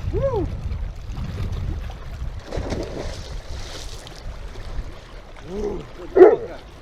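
Wind buffeting the microphone, with a dog's short high yelps and whines now and then, the loudest shortly before the end.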